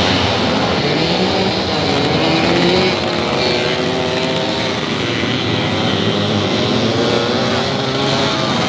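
Several vintage motorcycle engines running at race speed, revving up and down together with their pitches rising and falling as the bikes pass.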